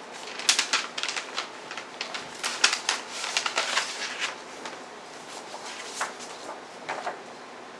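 Paper and card being handled: quick rustles, crackles and clicks, dense for about the first four seconds, then a few scattered taps.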